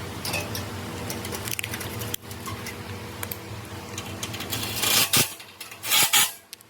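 Rapid clicking and metallic clinking of hand tools at work on the engine, over a steady low hum, with two louder noisy bursts about five and six seconds in.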